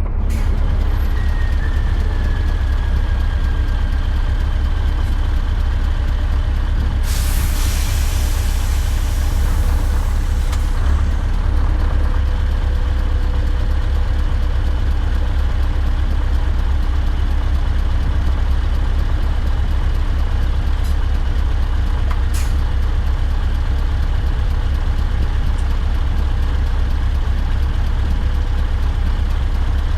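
Scania R580 V8 diesel with a straight-piped exhaust running steadily with a deep, loud low rumble. A hiss about seven seconds in lasts around three seconds, and two short clicks come near the end.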